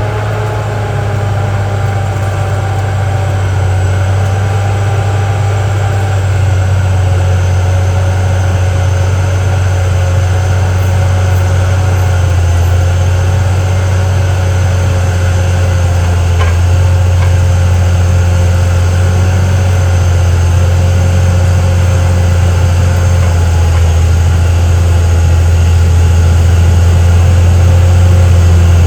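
CAT D6R XL bulldozer's diesel engine running steadily with a deep hum, growing gradually louder.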